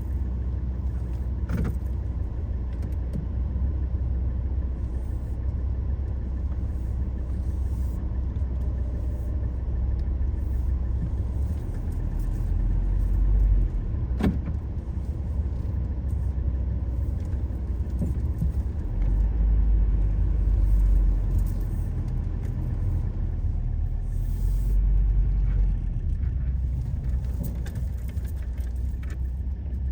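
Car driving on the road: a steady low rumble of engine and tyres that swells a little now and then, with a couple of sharp clicks.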